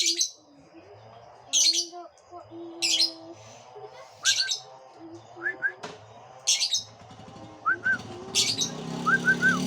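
A pet bird calling: six loud, harsh, shrill calls spaced one to two seconds apart, with short rising chirps in between, including a quick run of three near the end.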